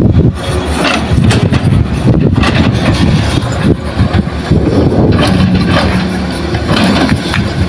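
Diesel engines of heavy earth-moving machinery, an excavator and dump truck, running loudly with a steady low hum under a dense, crackly noise.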